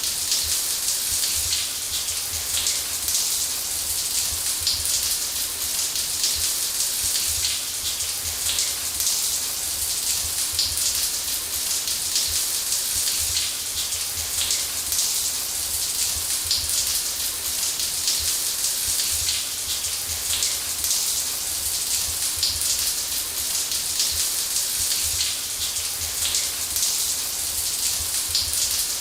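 Shower spray running steadily: an even hiss of falling water flecked with small spatters of drops, over a faint low rumble.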